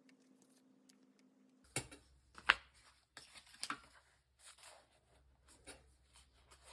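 Close handling of paper and stationery: light rustles and small taps, the sharpest a click about two and a half seconds in.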